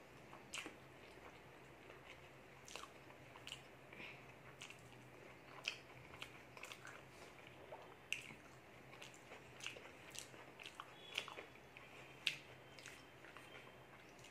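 A person chewing a rice meal eaten by hand, with close, irregular mouth clicks and smacks, a few of them sharper than the rest.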